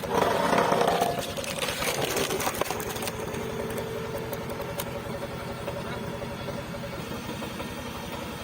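Hydraulic log splitter's engine running steadily with an even low pulse. A loud burst of cracking noise comes in the first second and fades away over the next two, as the wedge forces through a log.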